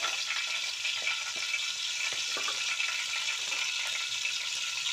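Chopped green chillies frying in coconut oil and ghee over a low flame: a steady sizzle with small crackles now and then.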